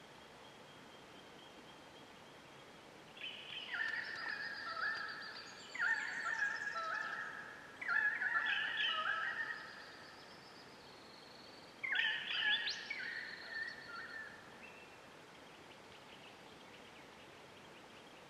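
A bird calling loudly in a run of warbling, stepped calls from about three seconds in to about ten seconds, then a second shorter run about twelve seconds in.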